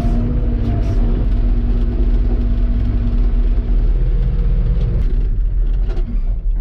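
Claas Dominator 85 combine harvester running, a loud steady low rumble with a constant hum, easing off near the end.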